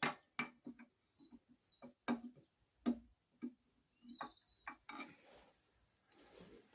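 Irregular metallic clicks and knocks, one to three a second, from tools and parts being handled while dismantling an engine. A few short, high, falling chirps come about one to two seconds in.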